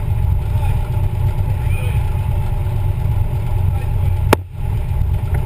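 DAX 427 Cobra replica's V8 engine running with a deep, steady rumble. About four seconds in there is a sharp click, and the sound briefly drops before the rumble returns.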